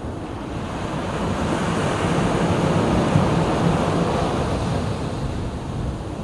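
Sea waves breaking and washing ashore, one wave swelling about a second and a half in and easing off near the end, with wind rumbling on the microphone.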